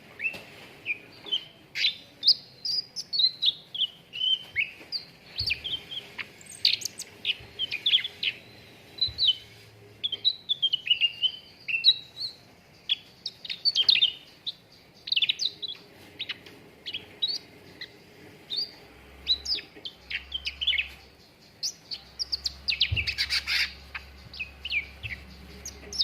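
Cucak ranting songbird singing: a fast, unbroken run of short, high chirps and twittering notes, used as a lure call to set cage birds singing.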